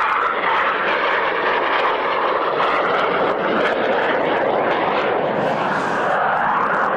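Solo display aircraft flying past, a steady, loud engine roar with a sweep in pitch near the end as it passes.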